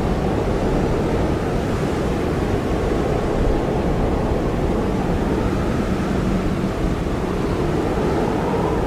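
Blizzard wind blowing hard and steadily, a dense rushing noise with a faint wavering whistle in the middle range.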